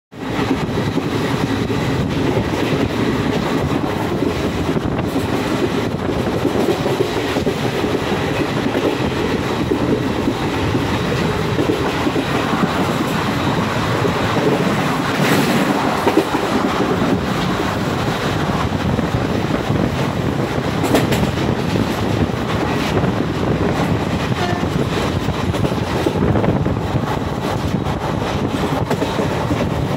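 Indian Railways train running at speed, heard from a coach window: a steady rumble of wheels on track with clickety-clack from the rail joints.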